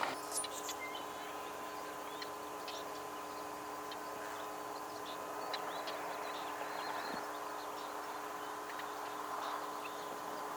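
Small birds calling in short, high chirps scattered throughout, over a steady background hiss with a faint constant hum.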